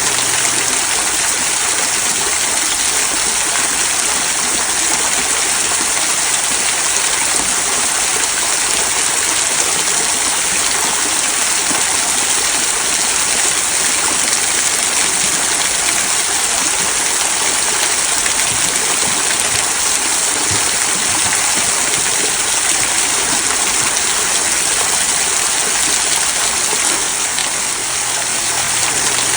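Water from a small rock waterfall trickling over mossy stones and splashing into a stream below, a steady, even rush of running water.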